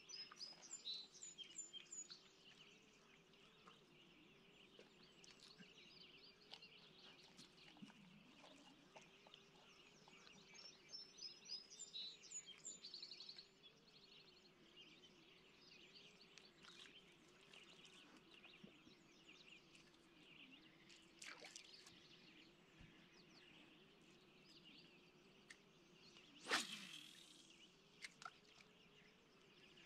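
Faint wild bird chirping in two short bursts, near the start and again about ten seconds in, over a faint steady low hum. One brief louder whoosh comes near the end.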